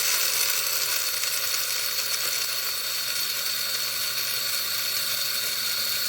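BLACK+DECKER One Touch electric blade coffee grinder running steadily, grinding coffee beans, with a steady high whine over the motor's hum.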